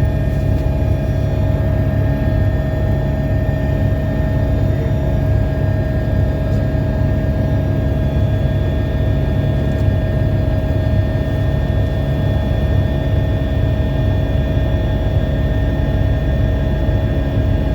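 Helicopter, an AgustaWestland AW139, running steadily: a constant turbine whine over a low pulsing rotor rumble.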